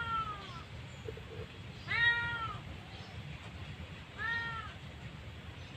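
A cat meowing: three drawn-out meows about two seconds apart, the first just at the start, over a steady low rumble.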